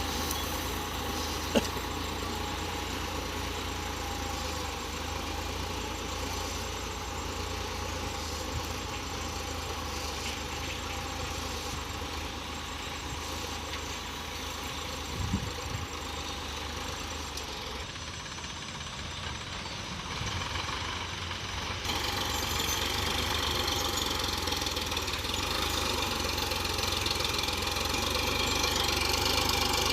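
A 47 hp tractor's diesel engine running steadily, growing louder over the last several seconds, with a sharp click near the start.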